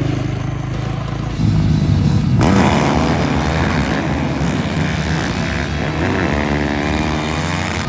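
Snow bike engines (dirt bikes fitted with ski-and-track kits) running hard and revving, the pitch rising and falling as the machines race on the snocross track.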